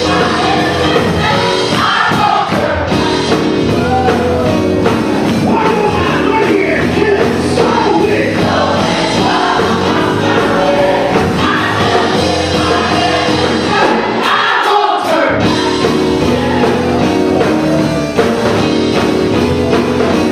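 Gospel choir singing with a live band.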